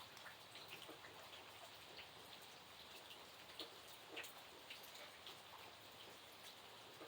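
Faint light rain: a soft, even hiss with scattered individual drops tapping at irregular intervals.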